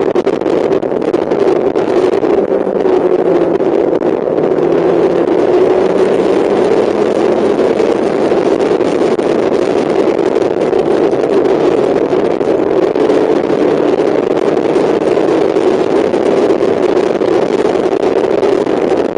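Mazda MX-5's four-cylinder engine running hard at track speed, heard from on board, its note drifting up and down slightly through the lap over a steady rush of wind and road noise.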